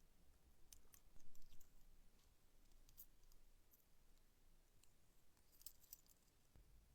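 Near silence with a few faint, scattered light clicks, of the kind small metal parts make when handled.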